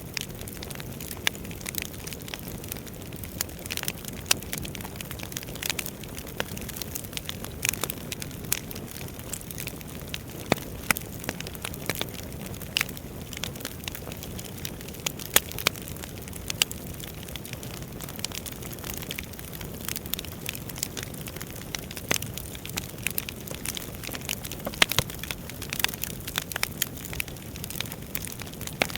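Wood fire burning in a fireplace, crackling with frequent irregular sharp pops over a steady low rush of the flames.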